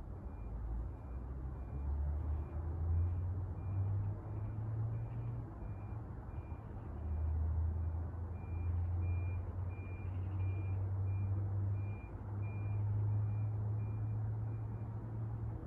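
A four-blade rattan ceiling fan running after a capacitor replacement, its downdraft buffeting the microphone in uneven low gusts. A faint high-pitched chirp repeats about three times a second.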